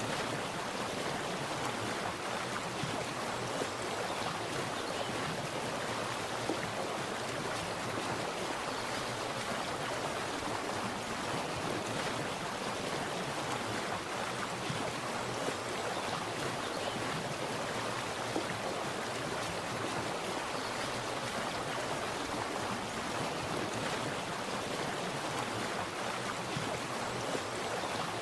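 Water splashing and running steadily over stones, like a small stream, as an even rushing hiss with no pauses.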